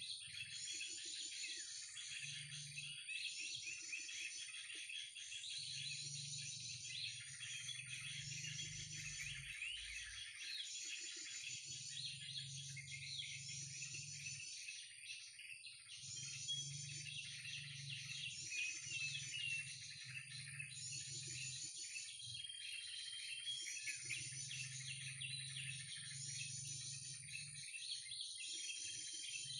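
Looped bird-call lure recording of mixed 'krucukan' calls played through a loudspeaker, the same burst of chirping repeating about every second and a half, with a steady thin high-pitched tone underneath.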